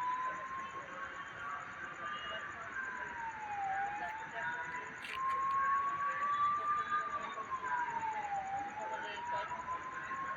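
A siren wailing, its single tone rising slowly over about three seconds and then falling more quickly, twice over.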